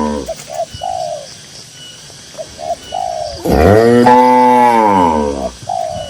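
A cow mooing: one long, loud call starting about halfway through, falling in pitch at its end, after the tail of an earlier moo at the very start. A dove coos in short notes between and after the moos.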